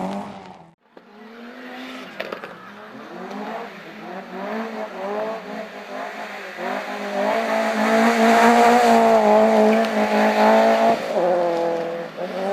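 Racing car engine revving hard, growing louder as the car approaches. It holds high revs for a few seconds, then the pitch drops and climbs again near the end.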